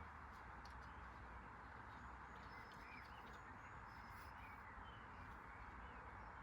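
Near silence: a faint steady hiss with a few faint bird chirps and small ticks.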